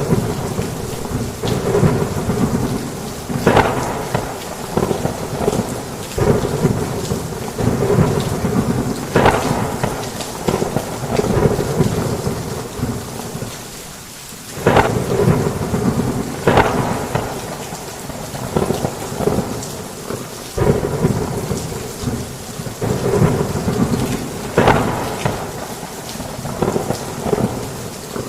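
Heavy rain with thunder. A steady hiss of rain is broken by repeated low rumbles and sharp cracks, and the level swells and dips, dropping briefly about fourteen seconds in.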